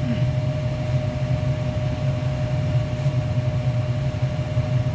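Furnace blower running with a steady hum and a constant whining tone. It is running during one of its intermittent on-periods, caused by a cracked solder joint on the furnace control board.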